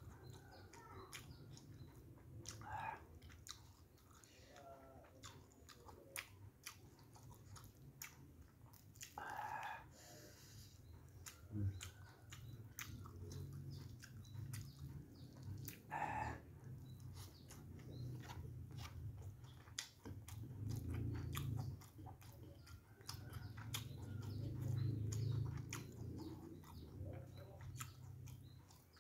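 A person chewing and biting mouthfuls of rice with fried fish and tofu, close to the microphone: wet chewing with many small clicks and smacks.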